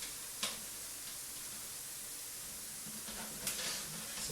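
Steady hiss with two short clicks, one about half a second in and one near the end: a PC power supply being handled and fitted into a computer case.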